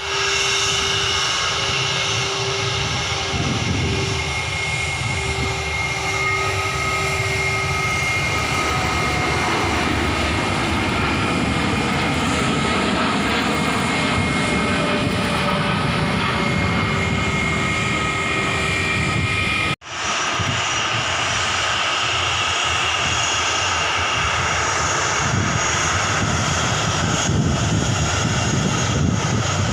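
Airliner engines running steadily: a broad rushing noise with steady high whining tones over it. It breaks off suddenly about two-thirds of the way through and comes back at once with the same steady engine sound.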